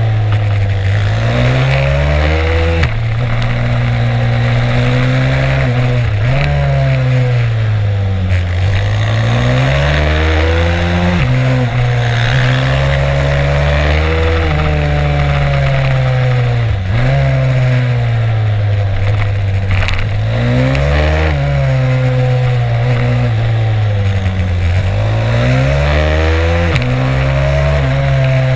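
Stomp 140 pit bike's single-cylinder four-stroke engine at race pace, heard onboard. The revs climb, fall and climb again over and over as it accelerates, shifts and slows for corners, with wind noise over the microphone.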